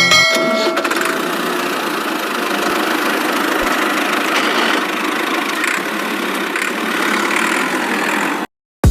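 Small electric motor of a DIY model machine running steadily with a gritty whir. It cuts off abruptly near the end.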